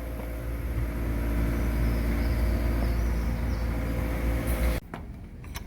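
A vehicle engine running steadily with a deep low rumble, cutting off abruptly near the end.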